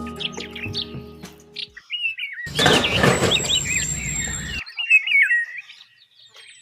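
Small birds chirping in short, quick rising and falling calls, with a noisy stretch of about two seconds in the middle.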